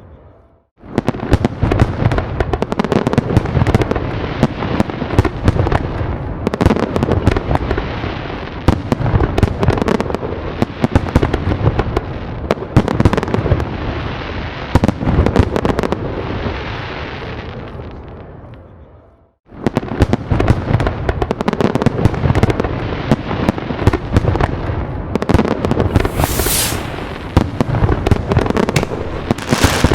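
A dense, continuous barrage of fireworks, with many overlapping bangs and crackles. It starts after a brief silence, dies away about two-thirds of the way through, and breaks off briefly before starting again just as thick.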